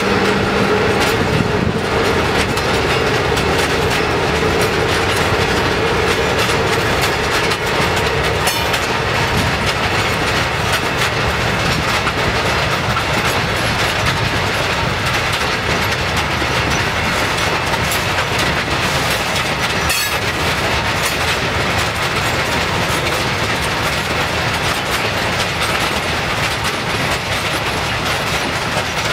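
Loaded coal wagons of a freight train rolling past, their wheels clicking steadily over the rail joints.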